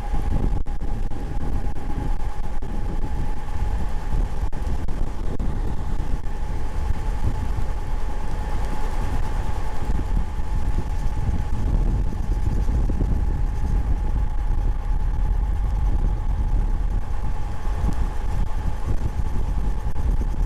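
Wind buffeting the microphone with a heavy low rumble, over the steady whine of an electric bike's hub motor cruising at an even speed.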